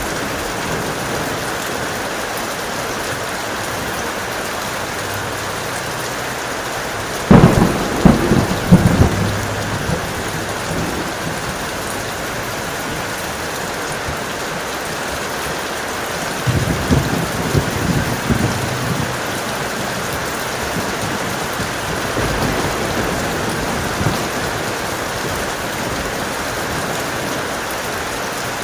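Steady heavy rain with thunder. A sudden loud clap of several cracks comes about seven seconds in, a second rumbling peal about sixteen seconds in, and a fainter rumble a few seconds later.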